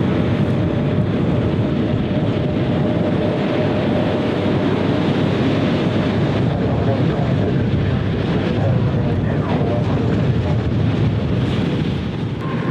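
Steady noise of a jet airliner's engines on the runway, mixed with wind on the microphone, with a faint steady tone over the first half.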